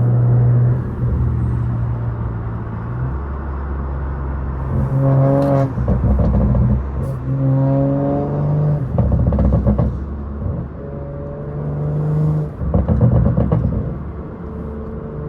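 Catless, straight-piped BMW 540i's turbocharged B58 inline-six droning steadily, then revving up hard several times, its pitch climbing in short pulls between gear changes.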